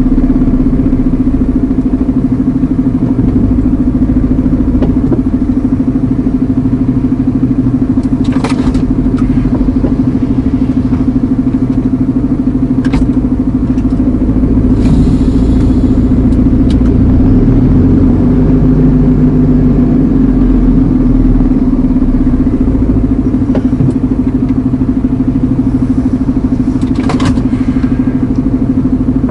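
Iveco Eurocargo lorry's diesel engine running steadily, heard from inside the cab as a loud, even drone. A few short clicks or knocks come through, one about eight seconds in and another near the end.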